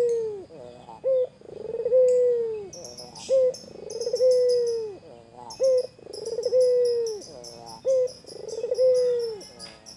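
White ringneck dove (puter) cooing repeatedly: each call is a short note followed by a long rolling coo that drops in pitch at the end, about every two and a half seconds, four times. Small birds chirp high-pitched in the background.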